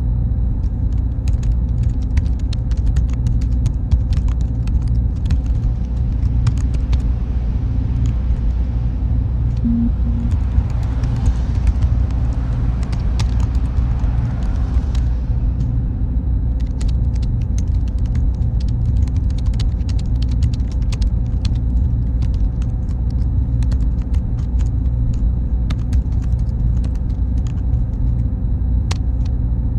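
Steady low hum of server-room machinery, with many faint scattered clicks. A broader hiss swells for a few seconds near the middle.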